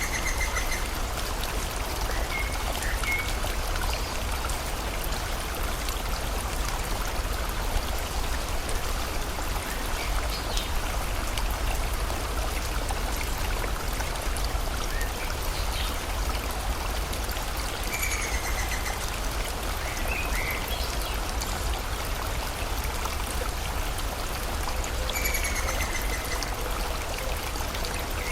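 River water flowing steadily. Birds call now and then over it: the same falling call comes three times, near the start, about two-thirds through and near the end, with a few short chirps between.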